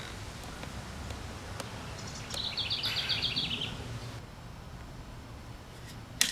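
Outdoor ambience with a steady low rumble; about two and a half seconds in, a bird sings a quick trill of about ten repeated high notes lasting just over a second. A single sharp click near the end.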